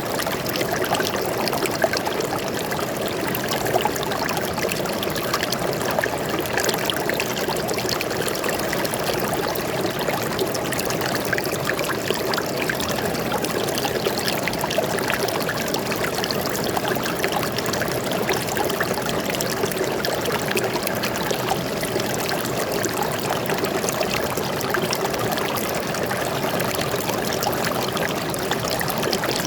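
A stream of water flowing and splashing steadily over rocks, an even, unbroken rush with fine trickling detail.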